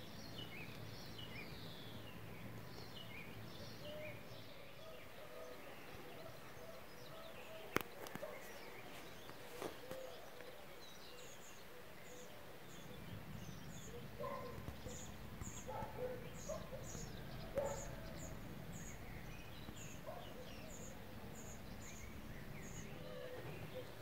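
Garden birds chirping. From about a third of the way in, one bird repeats a short high note roughly twice a second. A single sharp click sounds about eight seconds in.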